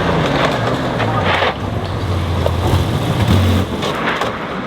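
Rally car engine running hard as the car passes on the stage, its note climbing and loudest about three seconds in, with a few short sharp cracks.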